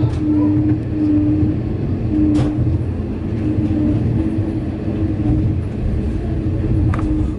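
Passenger train running at speed, heard from inside the coach: a steady low rumble of wheels on the track, with a hum that cuts in and out. Two sharp clicks come through, about two and a half seconds in and again near the end.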